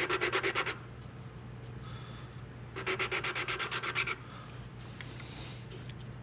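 A valve being lapped into its seat in a small-block Chevy cylinder head: the valve is spun back and forth against the seat with lapping compound, giving a gritty rubbing at about ten strokes a second. It comes in two bursts, the first ending under a second in and the second from about three to four seconds in.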